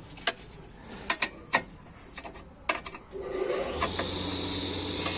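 Scattered metal clicks and clanks of hand tools on a car's exhaust fittings as the brackets and bolts holding the catalytic converter are undone. A steady hum comes in after about three seconds.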